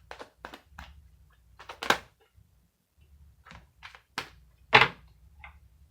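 Tarot or oracle cards being handled and laid down on a table: a run of short taps and card snaps, with two louder ones about two seconds and five seconds in.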